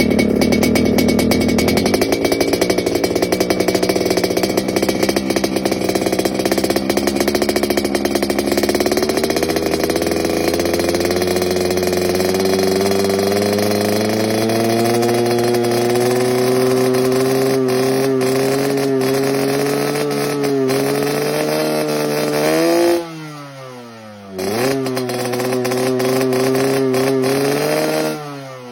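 Yamaha RX-King two-stroke single-cylinder motorcycle engine with its raspy 'snoring' (ngorok) exhaust note, revs climbing slowly for about twenty seconds. Near the end the throttle is shut and reopened twice, the pitch dropping sharply and climbing back each time.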